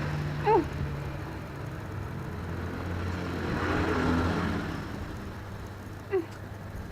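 Steady low engine hum of road traffic, with a vehicle passing that swells and fades about four seconds in. Two short, sharp, falling chirps are heard, one near the start and one near the end.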